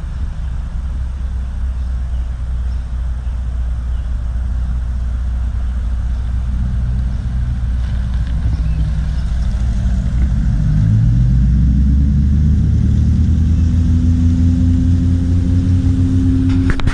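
A car engine running close by with a deep rumble. About halfway through its pitch climbs and it gets louder, then it holds steady.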